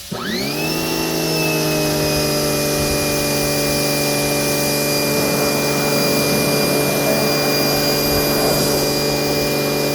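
Giraffe Tools Grandfalls electric pressure washer's motor and pump starting as the trigger is squeezed, rising in pitch to a steady whine within about a second and then running steadily over a hiss of spray.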